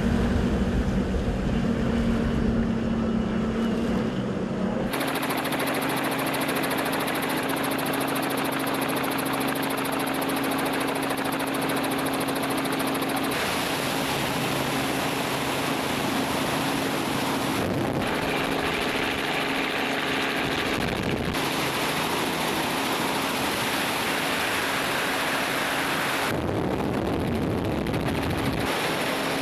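Jet ski (personal watercraft) engines running, a steady high drone whose pitch and character change abruptly several times.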